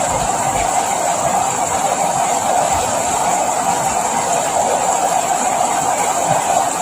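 Steady rain, an even hiss without breaks or distinct drops standing out.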